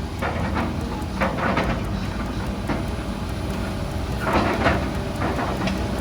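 Excavator engine running steadily while the bucket tears down a walkway roof. Irregular crashes and scraping of falling roofing debris come about a second in and again around four to five seconds in.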